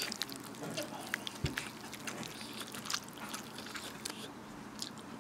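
Close-up eating sounds: chewing, with many small sharp clicks and crackles. There is a dull thump about a second and a half in.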